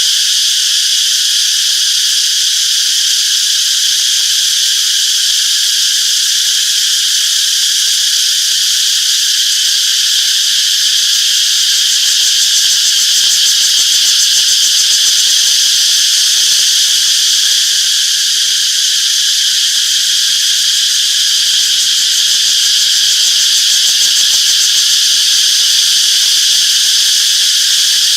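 Cicadas chirping in a continuous, steady high-pitched buzzing chorus.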